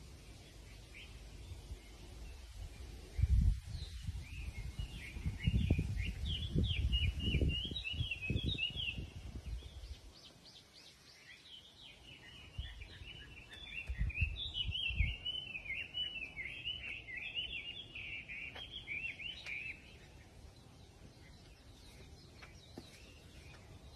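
A small songbird singing long, rapid twittering phrases in two bouts, the second starting about halfway through. Low rumbles from wind or handling on the microphone come and go, loudest early on and briefly near the middle.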